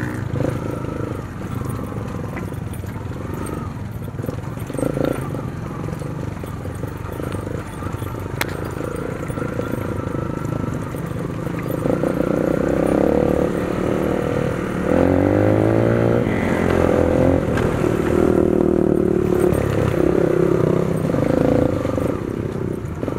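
Dirt bike engine running while riding a rough trail, its pitch rising and falling as the throttle is worked, with a cluster of revs about fifteen seconds in.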